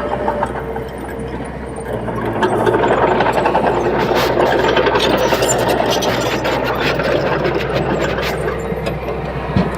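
Komatsu D21P bulldozer's diesel engine running, growing louder about two seconds in as the machine works, with dense rattling and clanking over the engine's steady drone until near the end.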